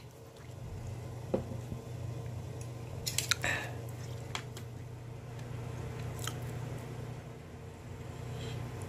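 Chewing and mouth sounds over a steady low hum, with a few light clinks of a metal spoon and chopsticks against the plate and pot, the busiest cluster about three seconds in.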